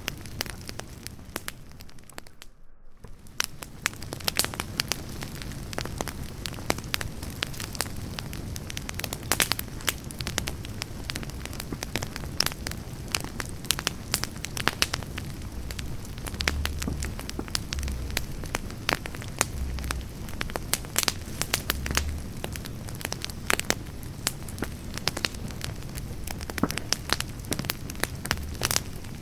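Wood campfire burning, crackling steadily with many sharp pops of burning firewood. The sound briefly drops out about two and a half seconds in.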